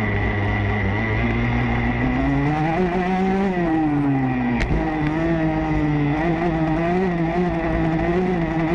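Motocross dirt bike engine running hard under a rider, its pitch climbing and falling as the throttle opens and closes, with one sharp click about four and a half seconds in.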